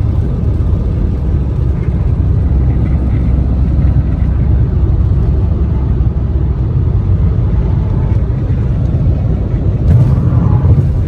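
A car driving, heard from inside: a steady, loud low rumble of road and engine noise.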